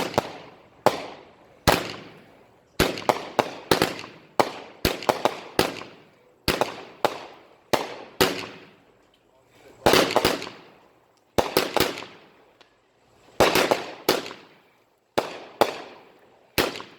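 Consumer fireworks going off in quick succession: sharp bangs, one to three a second, each trailing off in an echo, broken by a few short pauses.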